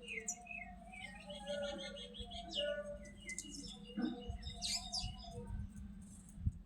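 Small birds chirping, many short quick notes and a few sweeping calls overlapping, over a steady low hum.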